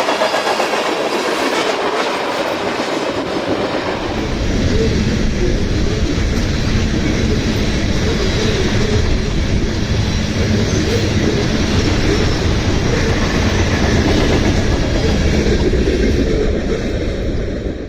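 CSX freight train rolling past close by, steel wheels on the rails. A heavy low rumble sets in about four seconds in and holds steady, then the sound cuts off abruptly at the end.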